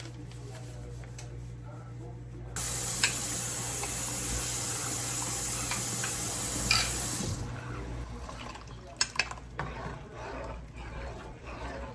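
Kitchen faucet turned on and running for about five seconds, then shut off, followed by a few light clicks and clatters of kitchenware.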